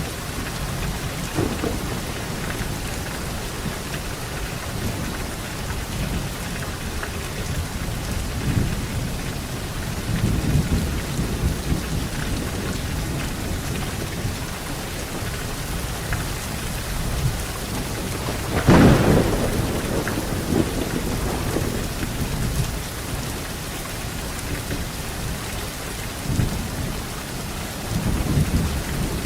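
Steady heavy rain with rolling thunder: low rumbles come and go, and the loudest, sharpest clap of thunder breaks about two-thirds of the way through.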